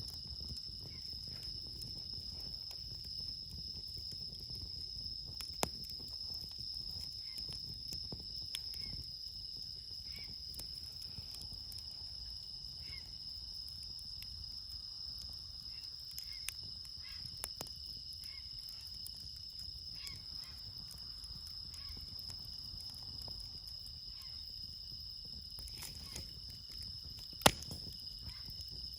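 Steady chorus of night insects, bell crickets (suzumushi) among them, with a campfire crackling in short scattered pops. One loud, sharp pop comes near the end.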